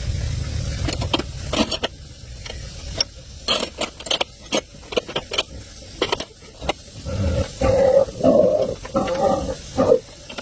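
Mechanical repair work on tractor parts. A low rumble dies away at the start, then comes a run of separate clicks and knocks, and a rougher rasping sound for about three seconds near the end.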